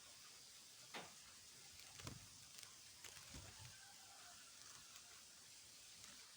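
Near silence: a faint steady hiss with a few soft knocks, about one, two and three seconds in.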